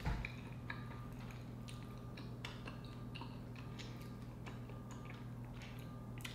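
Close-miked chewing of a mouthful of sea urchin roe and rice: soft, irregular small wet mouth clicks over a steady low hum, with a brief low thump right at the start.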